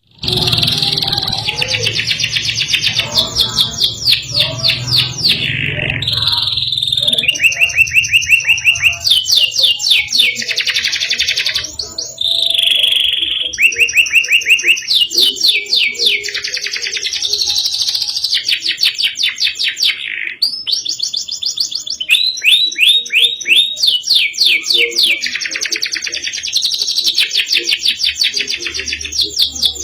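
Domestic canary singing a long, loud song of fast trilled rolls and sharp high notes. The phrase changes every second or two, with only brief pauses.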